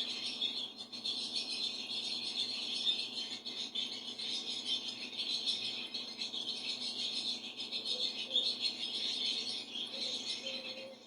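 Bird song: a continuous, high-pitched, rapid chattering trill with no pauses.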